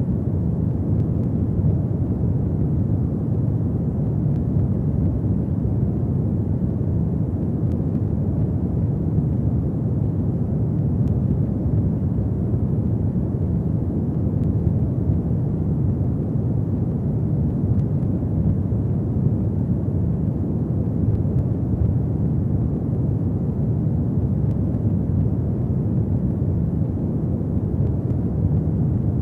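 Fireplace fire burning with a steady low roar, with a few faint crackles scattered through it.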